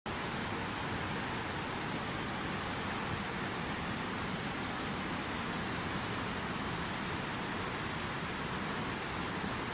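Steady, even rushing noise with no tones or rhythm, starting abruptly.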